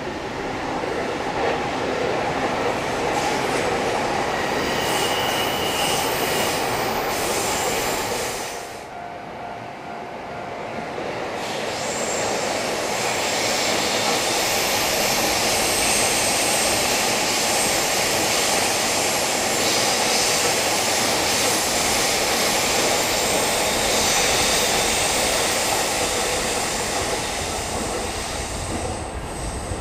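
Trains running past close by. One pass dies away about eight seconds in, then a second, longer pass builds up and runs on until it eases near the end.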